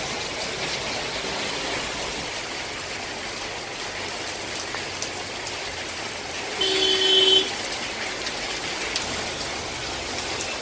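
Steady rain falling as an even wash of noise. About two-thirds of the way through, a brief pitched sound, louder than the rain and under a second long, rises above it.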